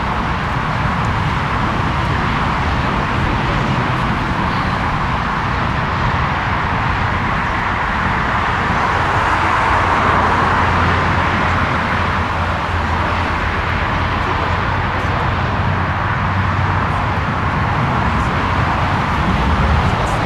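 Jet engine noise from a Lufthansa Airbus A340-300's four CFM56 turbofans: a steady rushing roar with a low rumble underneath, swelling to its loudest around the middle and easing off again.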